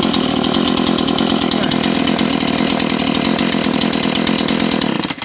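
McCulloch CS 450 chainsaw's 45 cc two-stroke engine running at steady high revs, cutting off suddenly near the end.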